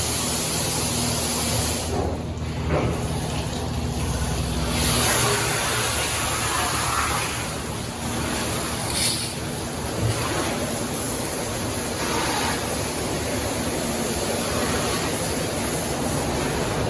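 PDQ LaserWash 360 touchless car wash running, its water jets spraying with a steady hiss. A low hum from the machinery runs under it and stops about four and a half seconds in.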